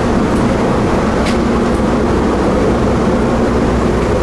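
Steady low drone of a ferry's engines running while the boat waits at the dock, heard on board.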